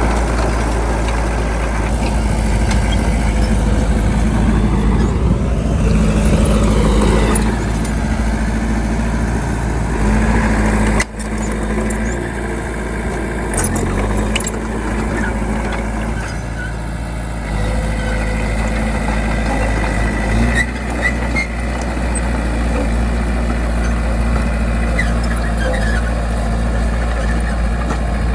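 Bulldozer's diesel engine running steadily, rising and falling in pitch once about five seconds in, with a few scattered metallic clanks later on.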